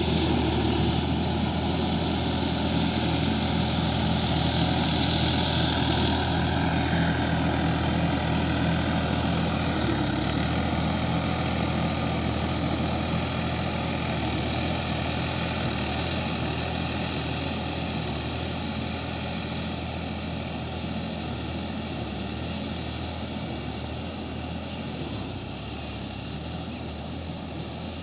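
Sonalika DI-50 RX tractor's diesel engine running steadily, gradually getting quieter through the second half.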